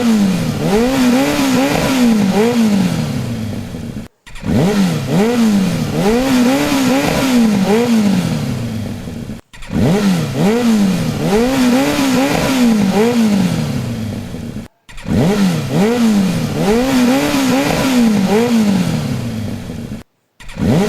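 Engine revving sound effect, like a motorcycle: quick rising and falling revs that end in a long falling glide. The same roughly five-second clip plays four times, with a short break before each repeat.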